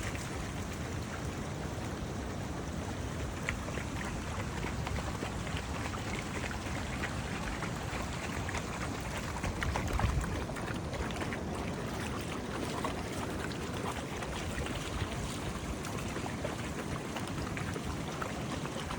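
Steady rushing of water from the rough surf and a small freshwater stream running into the sea, swelling briefly louder about ten seconds in.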